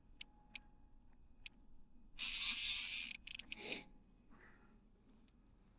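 Fishing reel drag buzzing for about a second as a hooked white sturgeon pulls line off, with scattered clicks before and after.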